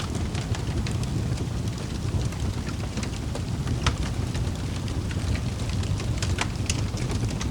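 Wood fire crackling in a fireplace: a steady low rumble of flames with scattered sharp pops and snaps, a clear one about four seconds in and several more near the end.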